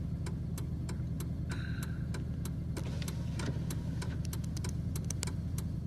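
Vehicle engine idling, a steady low hum heard inside the cab, with a light ticking about three times a second.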